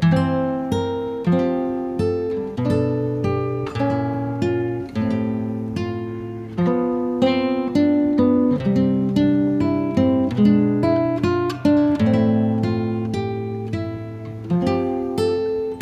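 Background music: acoustic guitar, plucked and strummed notes in a steady flow.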